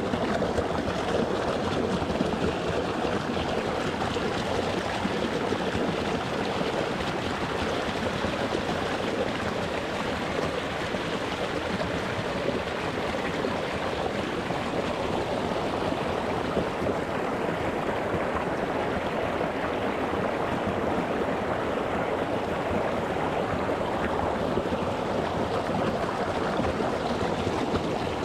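Shallow mountain stream running over rocks, a steady rush of flowing water close to the microphone.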